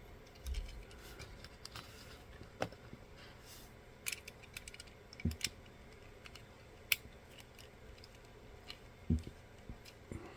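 Scattered small clicks and taps, with a few soft thumps, from a 1:64-scale diecast toy car and its removable front being handled.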